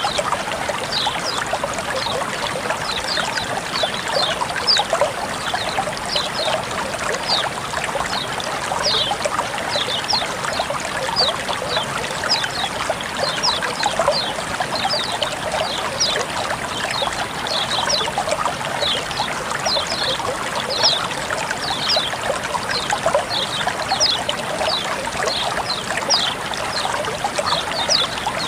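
Water trickling and flowing steadily, with many quick, high little plinks from droplets and splashes scattered through it.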